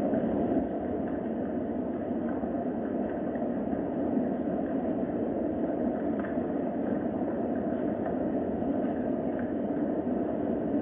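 Steady rain, an even rushing hiss with faint scattered drop ticks through it.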